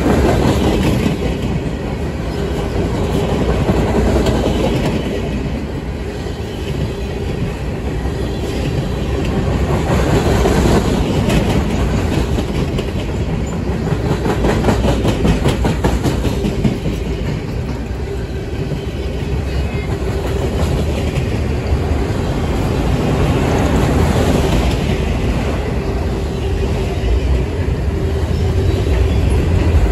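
Loaded freight flatcars rolling past close by: a steady rumble of steel wheels on rail, with clickety-clack as the wheels cross rail joints and a faint steady whine.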